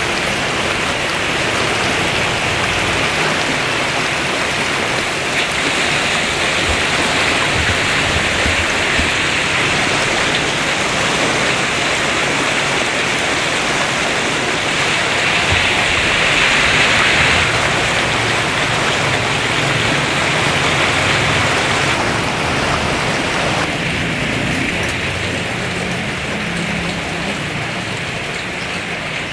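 Heavy rain pouring down, a loud steady hiss that swells a little about halfway through and eases slightly near the end.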